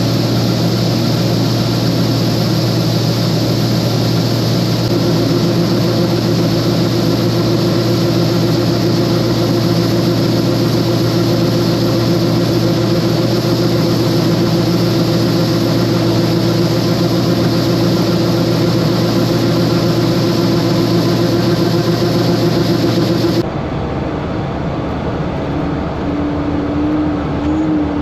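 Combine harvester running steadily at work: a loud low drone, with a steady whine joining about five seconds in. Near the end the sound changes abruptly to a quieter, duller machine running, with a wavering tone over it.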